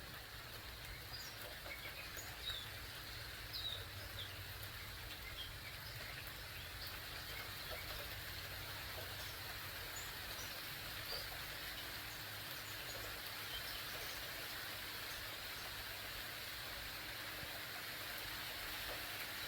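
Light, steady rain falling, a soft even hiss that grows slightly louder, with a few bird chirps mostly in the first few seconds.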